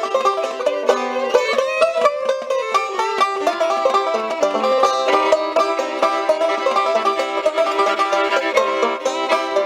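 Acoustic string music in a bluegrass-country style, an instrumental stretch of a song: fast runs of plucked notes at a steady, lively pace.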